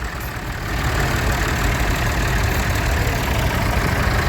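A tractor engine idling steadily, a continuous low rumble.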